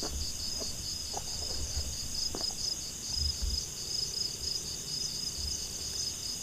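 Steady chorus of insects trilling, a high, pulsing buzz that does not let up, with soft low thumps underneath every second or so.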